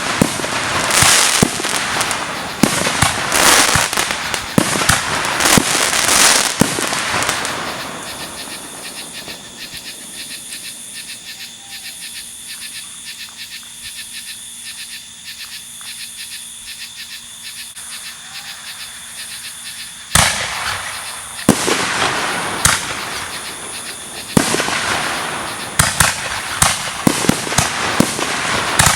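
Fireworks bursting and crackling in quick succession, then a lull of about twelve seconds filled by a steady high trilling of insects. About twenty seconds in, a sudden loud bang sets off another run of bursts and crackling.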